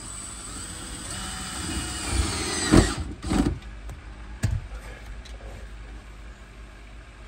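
Electric drill driving a screw: the motor whine builds for about three seconds, then a couple of sharp knocks, and one more a second later.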